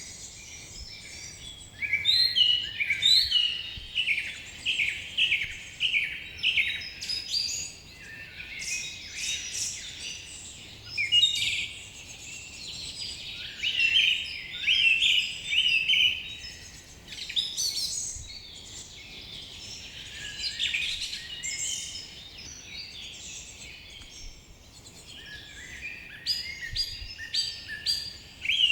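Several birds singing, with many short repeated chirps and quick trilled phrases, coming in bursts throughout over a faint steady background hiss.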